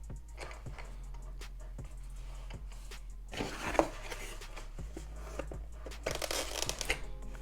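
Plastic packaging crinkling and rustling with light clicks and knocks as foam RC airplane parts are handled, with a louder rustle a little past the middle and another near the end.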